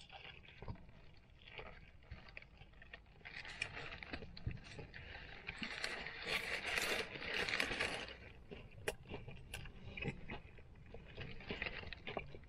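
Chewing and biting into a stacked fried chicken burger, with its paper wrapper crinkling in the hands. It is loudest in the middle few seconds.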